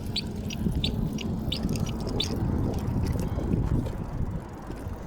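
Wind on the microphone and rumble from a bike being ridden. A high, regular squeak repeats two to three times a second and stops a little over two seconds in.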